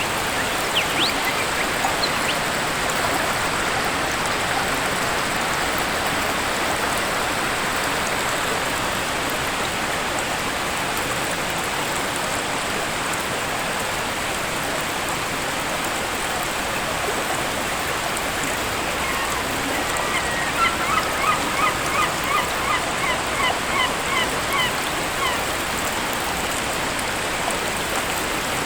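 Waterfall: a steady rush of falling water. Past the middle, a bird gives a quick run of about a dozen short calls over some five seconds, and a few thin chirps sound near the start.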